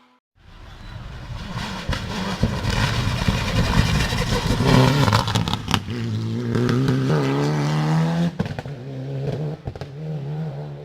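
Hill-climb race car approaching and passing at full throttle. The engine revs hard, with brief breaks for gear changes about eight seconds in, and then moves away.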